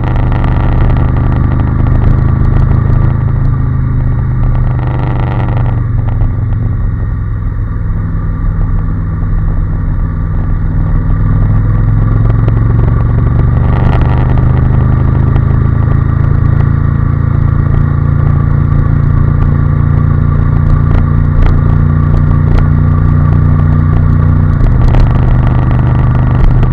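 Honda NC750S motorcycle's parallel-twin engine running at a steady cruise, heard from on the bike with road and wind noise. The engine note drops suddenly near the end.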